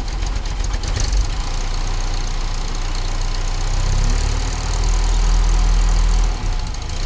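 Car engine running just after a cold start, with an uneven beat in the first second or so, then rising in level about four seconds in, with a brief dip near the end.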